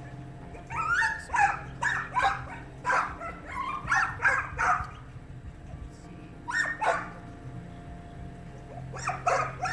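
A small dog yipping and whining in quick runs of short calls, a burst about a second in, another near seven seconds and more near the end, over a steady low hum.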